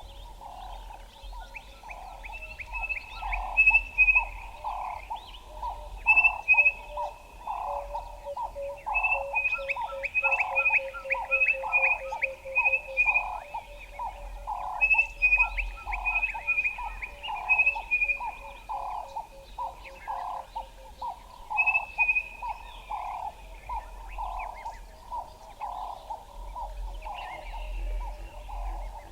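Several birds calling together: a low call repeated somewhat faster than once a second, with higher chirps, short falling whistles and a quick run of notes over it.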